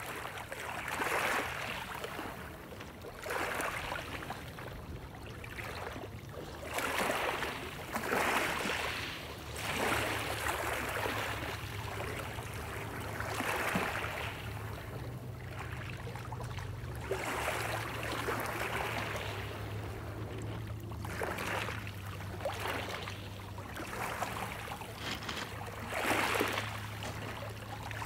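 Small waves lapping in irregular splashing swells every one to three seconds, over a steady low hum.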